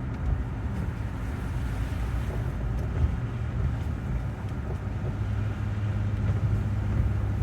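Steady road noise inside a moving car on a wet road: low engine and tyre rumble with a hiss above it. A low hum grows louder about five seconds in.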